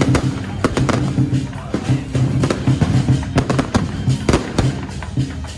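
Electronic firecrackers popping in quick, irregular bangs over loud music.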